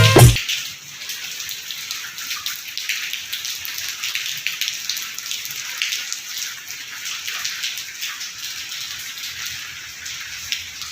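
Rain falling: a steady hiss made of many small drop ticks on hard surfaces. A snatch of music cuts off right at the start.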